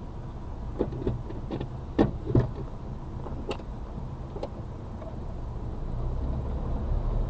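Suzuki Carry kei truck's 660cc engine running low, heard inside the cab while the truck crawls over rough ground. A series of sharp knocks and rattles from the cab, the loudest about two seconds in, sounds over the engine, which grows louder near the end.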